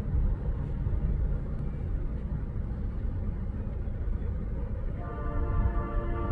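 Low rumble of a train rolling past, hauled by Union Pacific diesel locomotives. About five seconds in, a locomotive horn starts sounding a steady chord of several tones.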